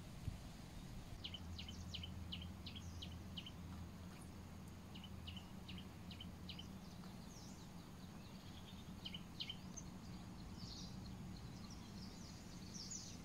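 Birds chirping in short, quick runs of high calls, several times over, against faint outdoor background noise with a low steady hum underneath.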